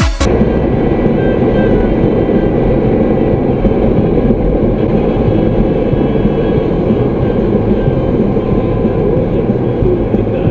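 Steady, loud low rumbling of a vehicle in motion, with no distinct impacts or changes.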